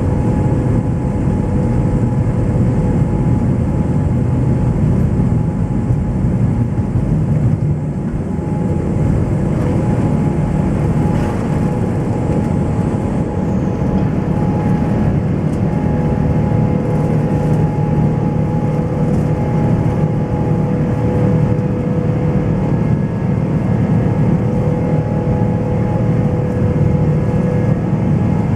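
Boeing 777-300 jet engines running at takeoff power: a loud, steady rumble with a few steady whining tones over it.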